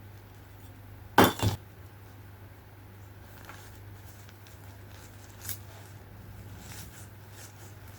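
Small hard decor pieces clinking as they are set down and handled: a sharp double clink about a second in, then a few lighter taps, over a low steady hum.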